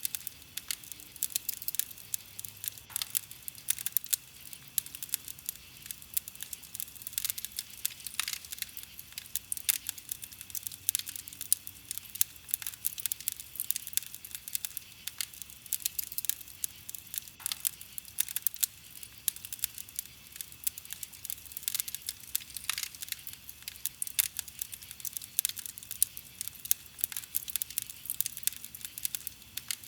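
Wood campfire crackling: a dense, irregular run of sharp pops and snaps from the burning wood over a faint steady hiss.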